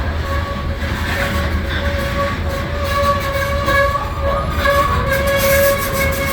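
Freight train with a low diesel rumble under a high, wavering squeal that comes and goes, typical of steel wheels or brake shoes on the cars.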